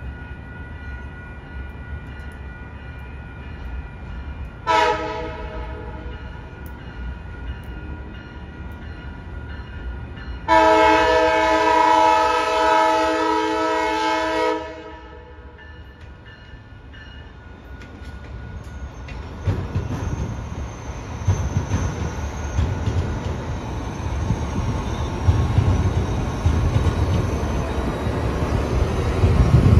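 Amtrak passenger train sounding its horn, a chord of several tones: a short blast about five seconds in, then a long blast of about four seconds. The train then rumbles up and passes, growing louder toward the end, wheels ticking over the rail joints.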